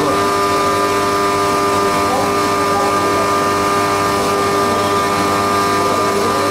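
Haas CNC milling machine running a fourth-axis cam-machining job: a steady mechanical whine made of several held tones over an even noise, unchanging throughout.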